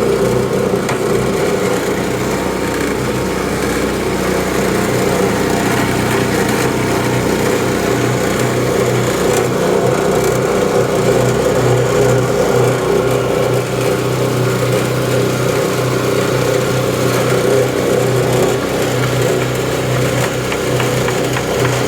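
Motor-driven mixing machine running steadily with a constant hum as its new blades stir the batch.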